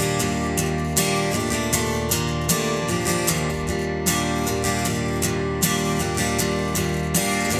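Instrumental break in a live pop song: strummed acoustic guitar over sustained backing, with a steady beat of regular hits.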